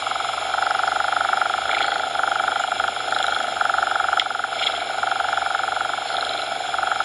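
Cat purring in a steady in-and-out rhythm, each breath lasting about a second, over a constant synthetic noise hiss.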